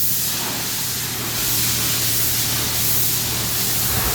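Steady hissing rush like spraying water, with a faint low hum underneath.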